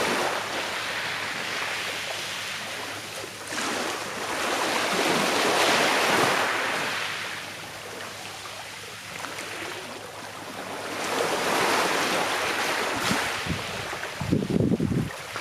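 Sea waves breaking and washing up the shore, swelling and fading about every six seconds. Near the end there is a short low rumble.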